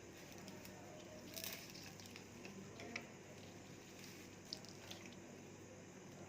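Faint rustling and a few soft clicks of fresh coriander sprigs being pulled apart and sorted by hand, over quiet room tone.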